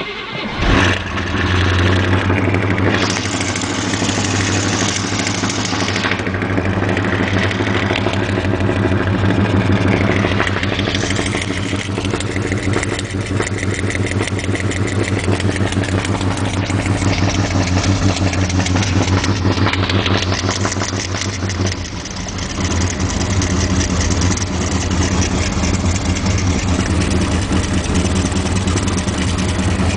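Straight-piped 350 small-block Chevy V8 with a lumpy cam and a manual-choke Holley carburetor catching from a cold start at about −25° and settling into a loud, steady fast idle. The sound changes a few times, with a brief dip about two-thirds of the way through.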